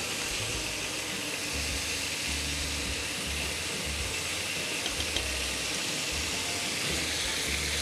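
Diced onion, garlic and mixed vegetables (peas, carrots, green beans) frying in oil in a pan: a steady sizzling hiss, with a few faint ticks of a spatula stirring them about five seconds in.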